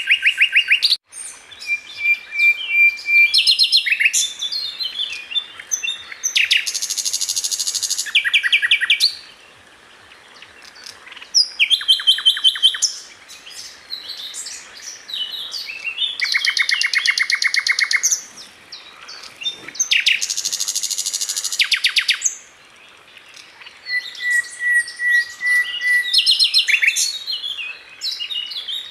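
A sikatan londo flycatcher singing in varied, fast phrases: rapid rattling trills and chattering clicks, broken by a couple of steady, held whistle notes, with short pauses between phrases.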